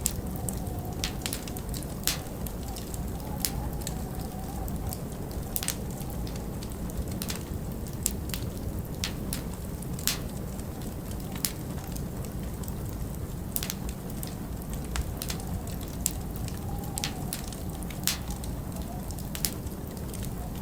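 Wood fire crackling, with frequent irregular sharp pops and snaps over a steady low rumble of wind.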